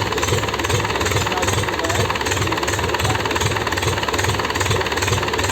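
Freshly repaired engine running just after being restarted, firing in an even, rhythmic beat of about four pulses a second.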